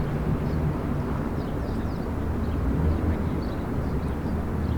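Steady low outdoor rumble, with a faint hum and a few faint high chirps.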